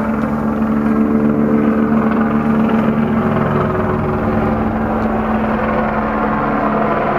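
Police helicopter flying overhead: a steady, fast rotor beat under an even engine drone.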